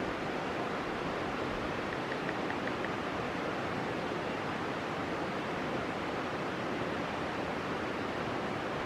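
Steady, even rushing noise, with a short run of faint high ticks about two seconds in.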